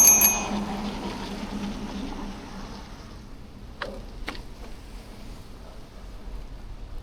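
A bicycle bell rung in a quick trill right at the start, then a steady hiss of street and traffic noise, with two short knocks about four seconds in.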